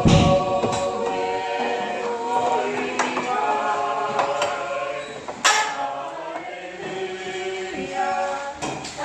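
A group of voices, men and women, singing a hymn a cappella in parts. A few sharp knocks cut through the singing, the loudest about five and a half seconds in.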